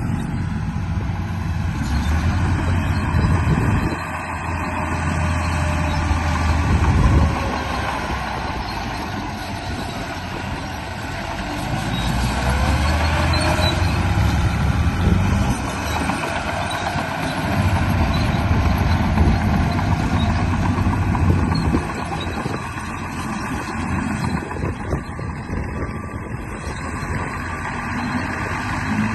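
Remote-control bulldozer running, a steady engine-like mechanical drone whose low rumble swells and drops several times as it works. A faint whine slides up and down in pitch now and then.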